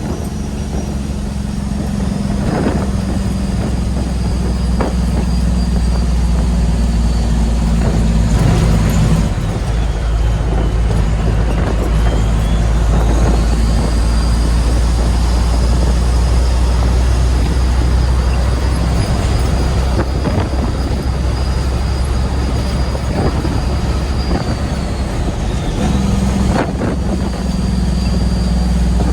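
Heavy truck's diesel engine running steadily while driving, with a high whine above it. The engine note changes about nine seconds in and again near the end.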